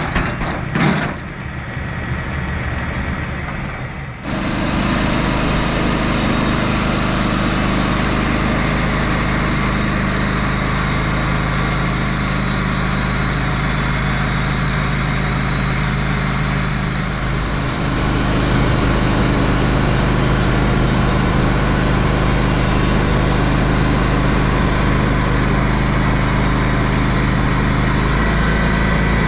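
Sawmill engine idling, then throttled up about four seconds in and running steadily under load as the mill saws a log.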